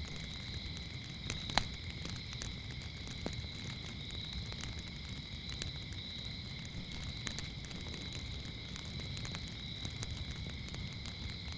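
Wood fire crackling with scattered sharp pops, one louder pop about one and a half seconds in, over a low rumble. Crickets trill steadily, and a short high chirp repeats about once a second.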